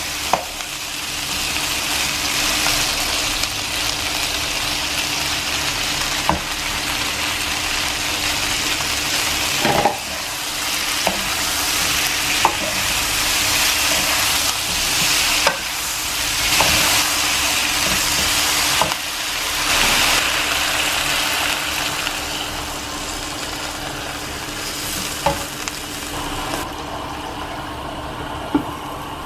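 Chicken wings sizzling in a hot non-stick wok as a wooden spatula stirs and tosses them, with scattered knocks of the spatula against the pan. About three seconds before the end the sizzle drops away, and a glass lid is set on the pan with a knock.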